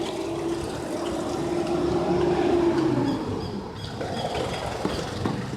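Street traffic: a passing vehicle's engine hum grows louder, then fades about three seconds in, over a general traffic rumble.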